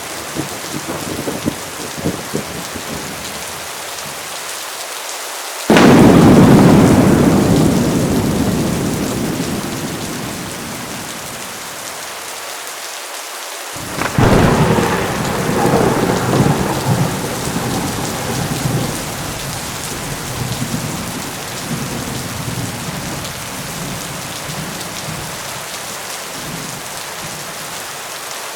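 Heavy rain falling steadily, with two thunderclaps. A sudden loud crack about six seconds in rumbles away over several seconds, and another comes about fourteen seconds in, followed by rolling rumbles.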